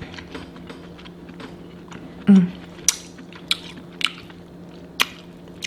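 Close-miked eating: chewing with a handful of sharp, wet mouth clicks and smacks, and a short hummed "mm" a little over two seconds in.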